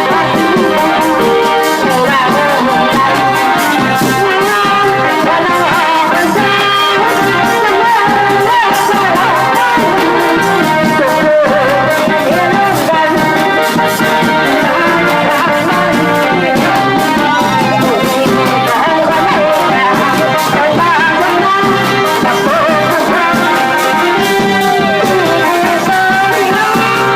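Thai brass band (trae wong) playing a tune, with brass horns carrying a steady, loud melody throughout.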